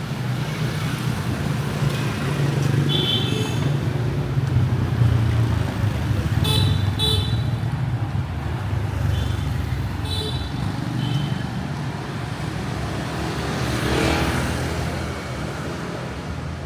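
Busy street traffic with motorbike and car engines running as a steady rumble, and short high-pitched horn toots several times. A vehicle passes close by about fourteen seconds in.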